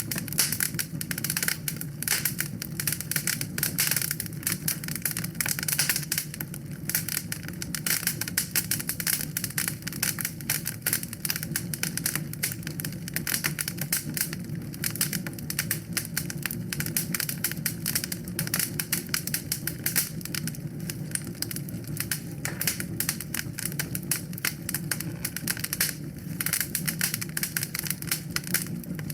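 Fireplace fire crackling: a dense, irregular run of sharp pops and snaps over a steady low rumble.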